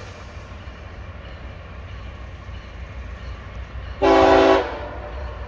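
Approaching freight train's locomotive air horn sounding one short, loud blast about four seconds in, over the steady low rumble of the oncoming train.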